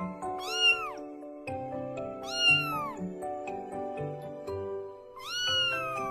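A cat meowing three times over background music. Each meow rises and then falls in pitch, and the third is long and drawn out.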